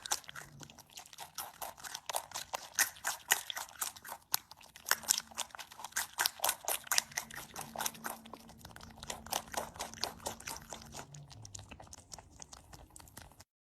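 Close-up chewing of crunchy food: crisp crunches come several times a second, steady throughout, then stop abruptly near the end.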